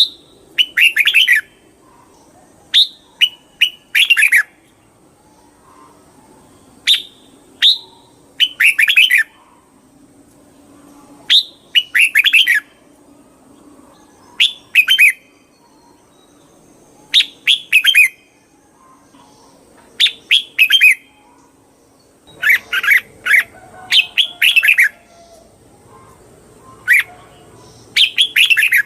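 Red-whiskered bulbul singing: short, bright whistled phrases repeated every second or two, often in quick pairs, coming thicker near the end.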